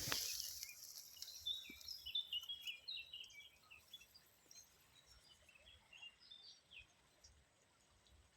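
Small birds chirping in quick, short high notes, busiest in the first few seconds and thinning out toward the end, after a brief hiss at the very start.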